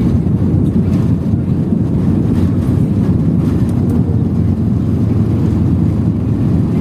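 Airliner cabin noise: the steady, loud low rumble of the jet engines and airflow heard from inside the passenger cabin, holding level without rising.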